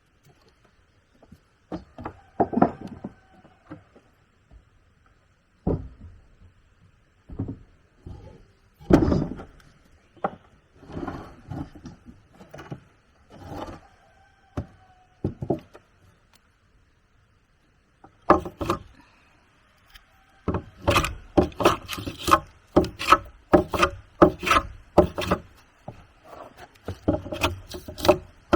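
Wood being worked by hand: scattered knocks and scrapes of timber being handled. About two-thirds of the way in, a steady run of quick strokes starts, two to three a second.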